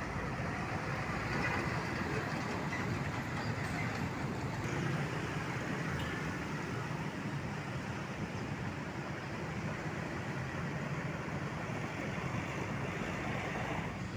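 Steady road traffic noise, with big trucks and buses running past.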